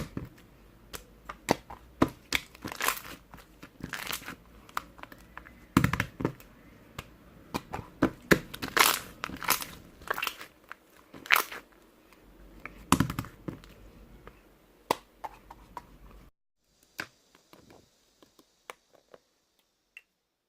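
Handmade slime being squished and pressed by hand, giving irregular crinkling, crackling pops. The sound stops about four seconds before the end, leaving a few faint clicks.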